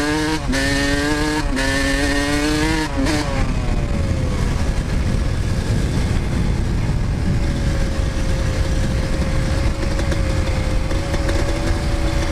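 Two-stroke Yamaha YZ125 dirt bike engine being ridden hard. Its pitch climbs and drops back at each of about three upshifts in the first three seconds, then eases off and holds a steady, lower note for the rest of the run, with a heavy low rumble underneath.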